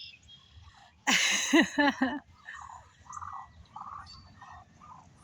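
Barnyard fowl calling: a loud burst of quick, repeated calls about a second in, then a run of short, soft calls about three a second.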